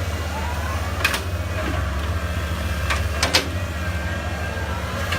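Heavy diesel engine running steadily with a low, even hum, with a few sharp knocks about one second and three seconds in.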